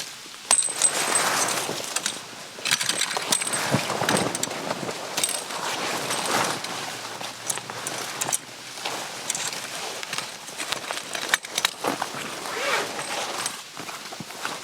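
Handling noises: rustling and scraping with many scattered clicks, knocks and light metallic clinks.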